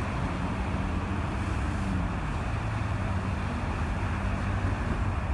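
Steady low rumble of vehicle engines and roadway traffic, with a constant low engine hum and some wind on the microphone.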